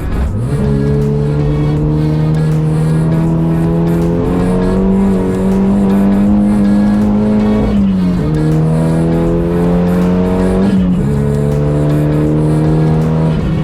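Renault Clio track car's Megane RS turbocharged four-cylinder engine accelerating hard through the gears. The pitch climbs steadily and drops sharply at each upshift, about eight and eleven seconds in. Music plays underneath.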